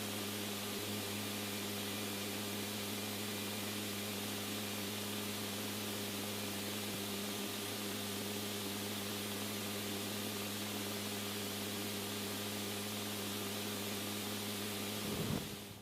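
Steady hiss with a low, even hum underneath, unchanging until it cuts off just before the end.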